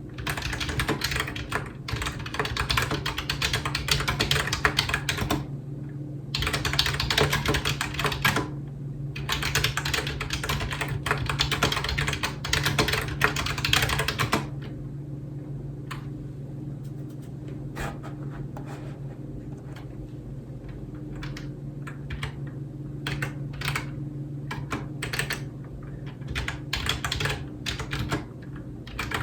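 Typing on a computer keyboard: fast runs of keystrokes with short pauses for the first half, then slower, scattered keystrokes for about ten seconds, picking up again near the end. A low steady hum runs underneath.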